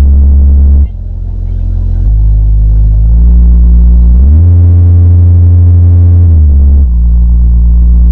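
A bank of sixteen subwoofers in a horeg-style sound system plays a subwoofer test of deep sustained bass tones. The pitch steps from one held note to the next every second or two, with a brief dip about a second in and a short upward slide around four seconds in.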